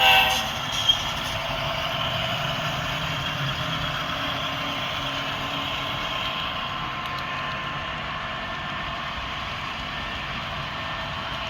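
HO scale model diesel locomotive's sound decoder playing a steady diesel engine running sound through its small onboard speaker. A horn blast cuts off just at the start.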